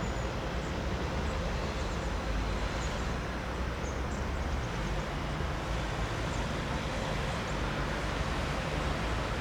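Steady low rumble and hiss of a train running at the station platform, with no distinct knocks or horn.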